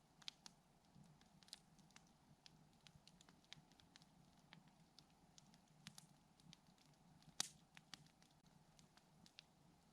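Campfire crackling softly: scattered sharp snaps and pops at irregular intervals, the loudest about seven seconds in.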